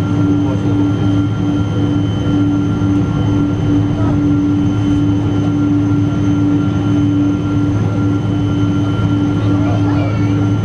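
Steady cabin drone inside a Boeing 777-200 airliner: a constant low hum with a steady tone over it and a fainter high whine, unchanging in level.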